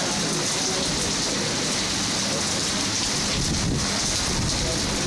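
Steady downpour of rain spattering on wet surfaces close by, with a low rumble building underneath in the second half.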